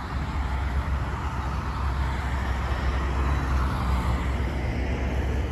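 Steady rumble of a CN freight train moving during switching, with no distinct clanks or horn.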